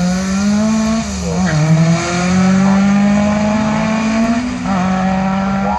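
Sprint car's engine accelerating hard, its pitch climbing and dropping at gear changes about a second in and again near the end, then climbing once more.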